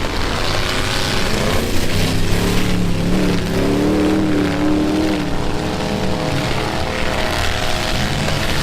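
Several pickup truck engines revving hard in a demolition derby, their pitch rising and falling as the trucks accelerate and reverse, with a few dull bangs of collisions.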